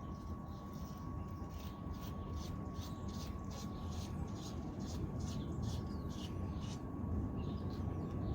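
Faint light metal clicking and scraping, a few small clicks a second, as the RAM ball stem nut is turned by hand onto the motorcycle's steering stem, over a low steady hum.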